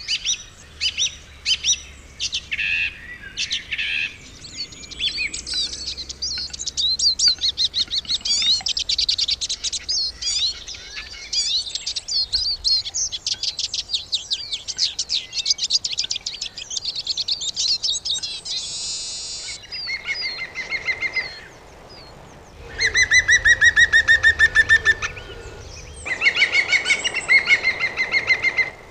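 Birdsong: many quick chirps and trills from songbirds, with long, fast trills that are louder in the last third.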